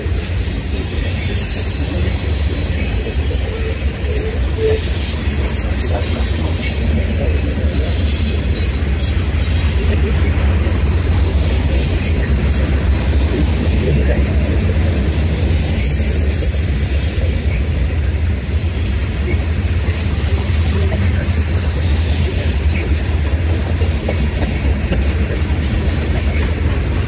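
Freight cars of a passing CSX mixed freight train rolling by: a steady low rumble of steel wheels on rail, with brief high-pitched wheel squeal about a second in and again around sixteen seconds in.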